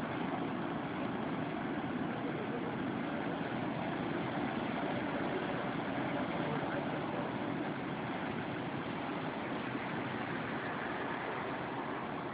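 Large ship's engines running with a steady drone.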